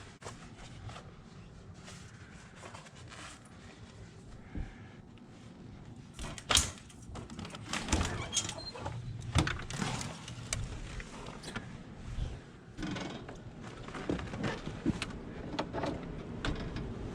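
A series of sharp knocks and clicks, the loudest about six and a half seconds in, then wind buffeting the microphone, building near the end.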